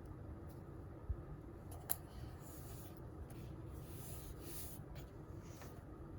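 Pen or pencil writing on paper: several short spells of scratchy strokes, with a sharp tick just before two seconds in.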